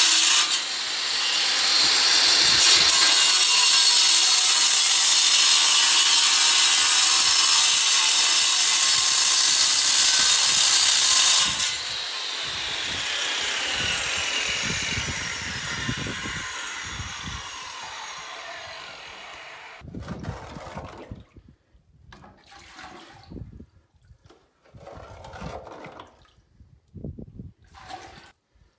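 A power tool runs loud and steady for about eleven seconds, then is switched off and winds down with a falling whine over several seconds. After that come scattered short scrapes and knocks.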